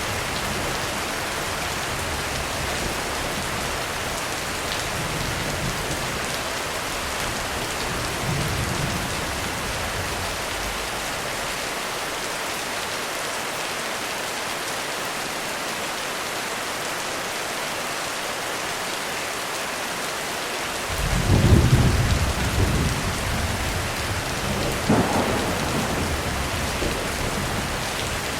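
Heavy rain falls steadily, with a thunderclap rumbling in about three-quarters of the way through. A second, sharper peak of thunder follows a few seconds later.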